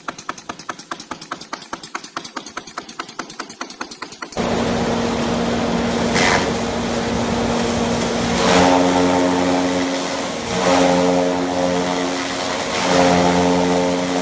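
Rapid, even mechanical clicking, about eight clicks a second, cuts off about four seconds in. A machine then starts up and runs steadily, its hum stepping in pitch a few times.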